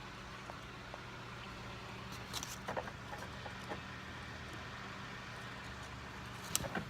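Steady rain falling, an even hiss with a low steady hum under it. A few sharp clicks about two and a half seconds in and again near the end.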